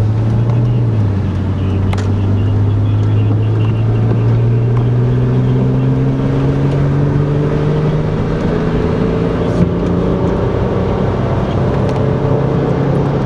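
Car engine and road noise heard from inside the cabin. The engine note drops about a second in, then rises slowly and steadily as the car gathers speed.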